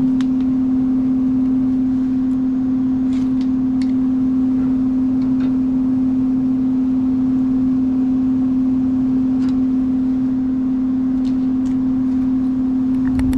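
Central air-conditioning equipment running: a loud steady hum on one pitch over a constant rush of air, with a few faint ticks.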